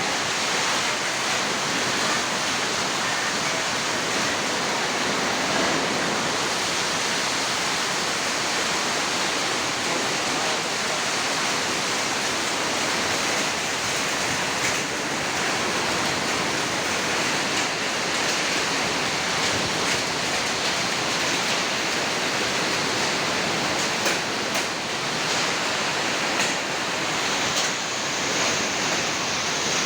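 Heavy rain in a hailstorm with strong wind: a steady loud hiss of downpour, with a few sharp knocks in the last few seconds.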